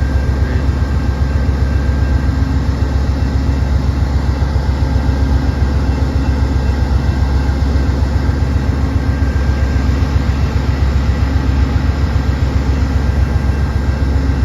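Amtrak P42 diesel locomotive standing at the platform, its engine running steadily with a deep, even hum and a faint steady whine above it.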